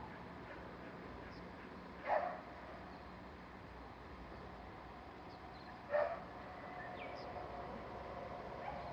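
A dog barking twice, two short barks about four seconds apart, over a faint steady background.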